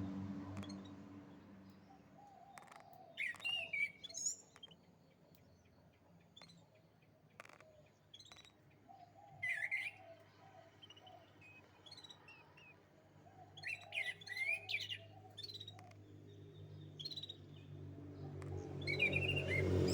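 Domestic canary singing in short, scattered bursts of chirps and trills, with pauses between phrases, over a steady low hum.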